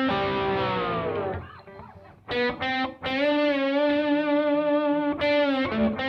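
Distorted electric guitar played with a glass slide: a held note slides down in pitch and fades, then after a short gap come two brief notes and a long sustained note with a slight vibrato, with quick notes near the end.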